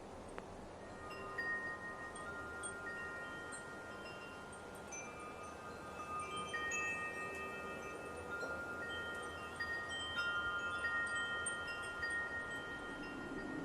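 Wind chimes ringing irregularly in a light breeze, their tones overlapping and sustaining, over a soft background hiss of wind.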